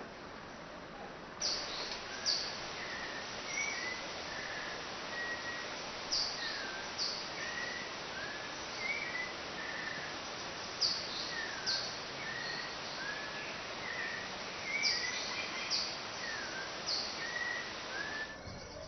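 Forest birds singing over a steady hiss, with a pair of high, falling notes repeated every few seconds among lower warbled notes. The sound starts suddenly about a second in and cuts off suddenly just before the end.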